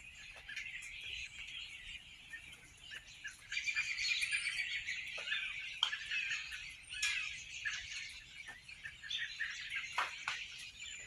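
A large flock of birds chirping and calling all at once, in a dense, unbroken chatter that grows louder a few seconds in. Scattered sharp ticks are mixed in, typical of berries the birds knock down striking a screen porch.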